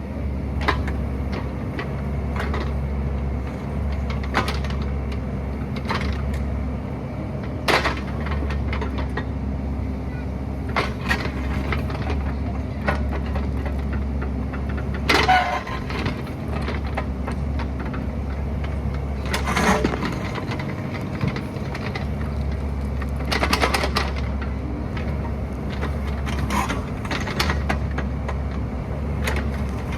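Excavator's diesel engine running steadily, with irregular sharp knocks and cracks of the bucket working rock, the loudest about halfway through.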